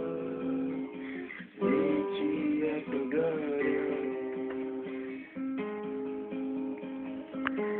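Acoustic guitar music: strummed chords in a slow instrumental passage.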